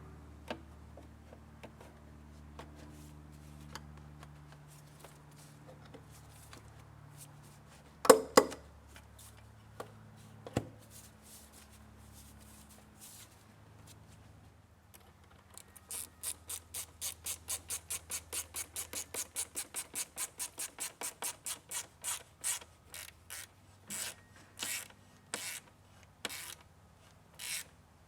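Hand ratchet wrench clicking fast and evenly, about four clicks a second, starting about halfway through and thinning to single clicks near the end. Earlier there is one sharp clack and a knock.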